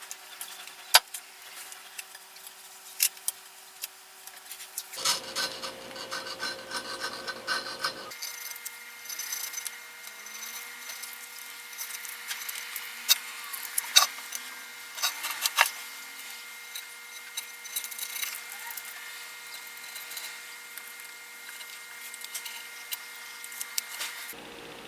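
Scraping and rubbing of hand work on tool parts, with many sharp clicks and taps. The background hum changes abruptly about five and eight seconds in and again near the end.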